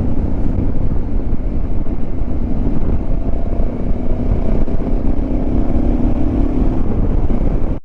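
Motorcycle on the move: a steady engine note under dense wind and road noise on the rider's microphone, with a brief cut-out at the very end.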